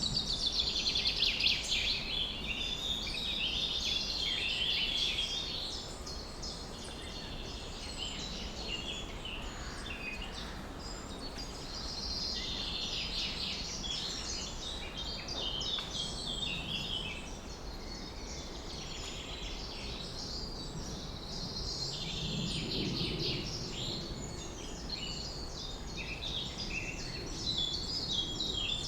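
Many birds chirping and singing at once, a dense chorus of high chirps and trills without a pause, over a steady low background rumble.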